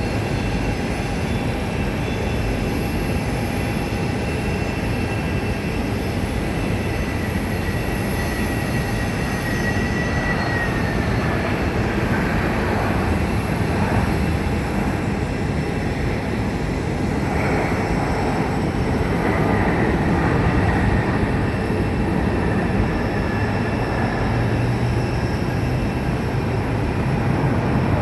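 Steady roar of jet engine and road traffic noise. A high whine slides down in pitch about ten seconds in and again around twenty seconds, and the low rumble grows louder near the end as the aircraft draws nearer.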